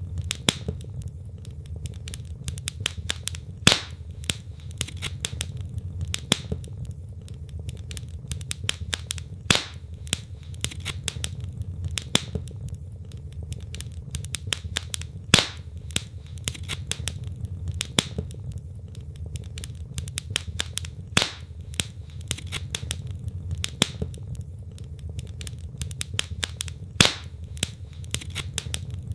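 Wood fire burning in a fireplace: logs crackling with a steady run of small sharp snaps over a low, even rumble of flame, and louder pops about every six seconds.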